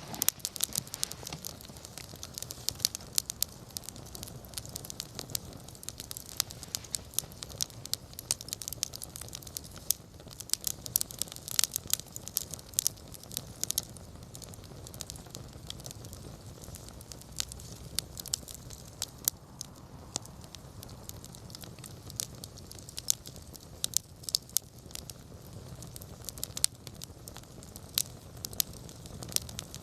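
Wood bonfire crackling, with frequent sharp snaps and pops scattered over a steady low rush of burning.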